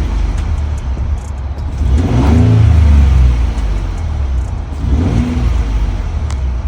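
2019 Ford F-150's 3.5L EcoBoost twin-turbo V6 engine running and being revved twice, about two seconds in and again near the five-second mark, dropping back toward idle between revs.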